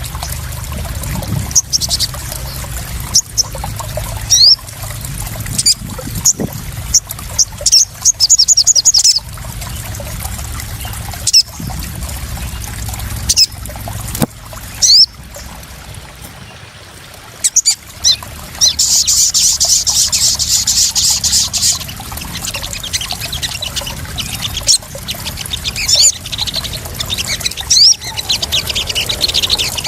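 Water splashing and trickling steadily, with sharp louder splashes now and then. High, short chirps and quick trills of small birds run through it, with a dense spell of high twittering about two-thirds of the way in.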